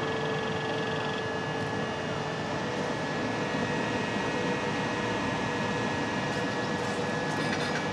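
Electric train at the platform, running with a steady hum and a few thin high whining tones; the lowest whine fades out about three seconds in.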